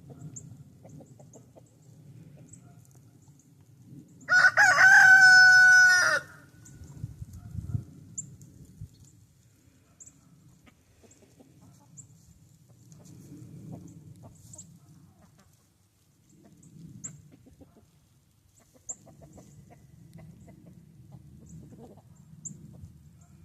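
A rooster crows once, a loud call of about two seconds starting some four seconds in. The rest is a faint low background.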